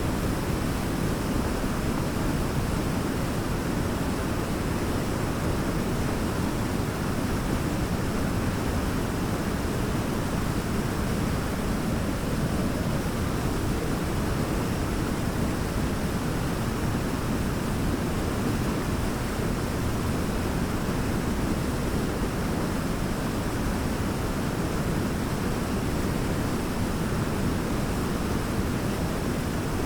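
A large waterfall rushing in a steady, unbroken roar, deepest in the low end, with no distinct splashes or changes.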